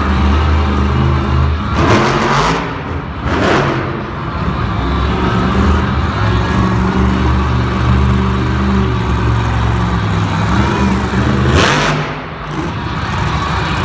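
Monster truck engine running loud and revving, holding and shifting in pitch, with sharp surges of noise about two to three and a half seconds in and again near the end.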